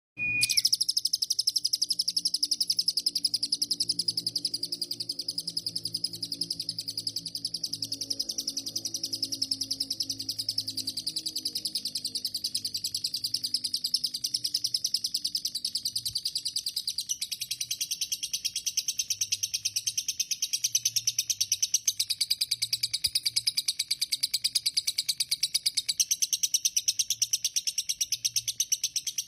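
Lovebird singing one long, unbroken run of rapid high chirps without a pause, the continuous 'konslet' chatter that lovebird keepers prize. Its pitch shifts slightly twice during the run.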